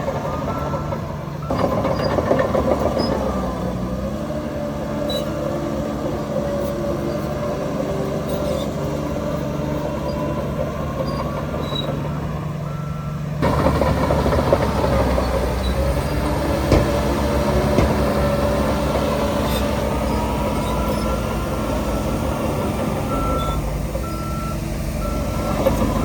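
Diesel engines of heavy earthmoving machinery running steadily, with a reversing alarm giving short beeps: once near the start, once around the middle and four times near the end. The sound changes abruptly twice.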